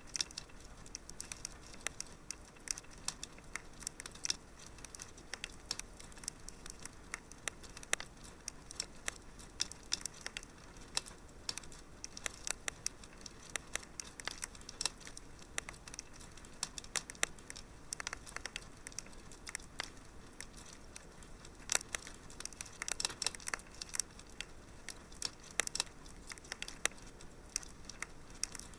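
Wood fire burning in a fireplace, crackling with frequent irregular pops and snaps over a soft steady hiss of flame.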